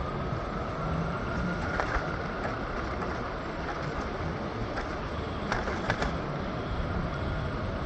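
PATH commuter train running on its tracks: a steady rumble of wheels on rail, with a faint rising whine in the first couple of seconds and a few sharp clacks, one about two seconds in and a cluster around five to six seconds in.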